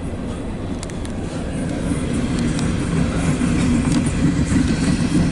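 Empty CSX coal train rolling past, a steady rumble of the cars on the rails with a few sharp ticks about a second in, growing gradually louder.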